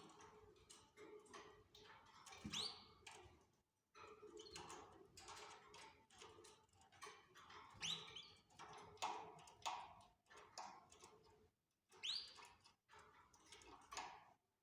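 Canaries chirping: a run of short, quick chirps broken by brief pauses, with a few fast rising whistled notes, about four of them, spread through it.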